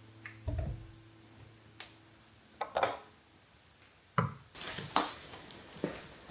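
Household items being handled and set down: a dull thump about half a second in, then scattered knocks and clinks, busier in the last two seconds. A low steady hum stops just before the thump.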